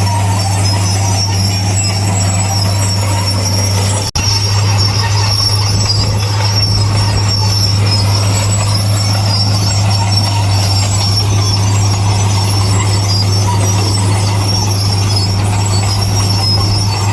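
Heavy diesel earthmoving machinery running steadily with a constant low drone, over a steady high metallic squeal like crawler tracks. The sound breaks off for an instant about four seconds in.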